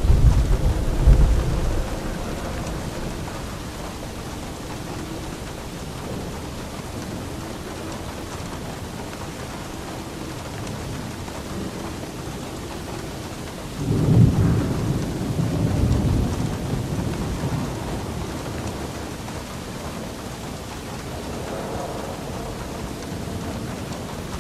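Steady rain with thunder: a deep rumble dies away in the first couple of seconds, and a second rumble breaks suddenly about fourteen seconds in and fades over a few seconds.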